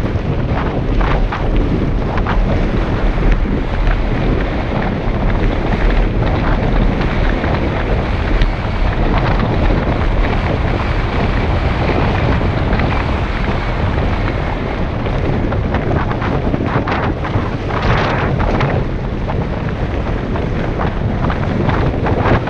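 Heavy wind buffeting on a helmet-mounted GoPro microphone during a fast downhill mountain-bike ride, with the bike's tyres and frame rattling and knocking over the rough road; a cluster of louder rattles comes about eighteen seconds in.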